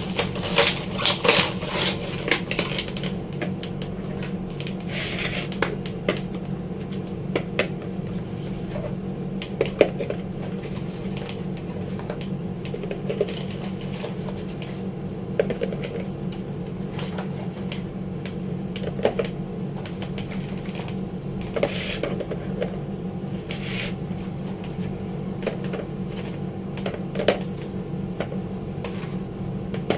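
Kitchen items being handled: scattered clicks, taps and knocks of containers and packaging, busiest in the first few seconds, over a steady low hum.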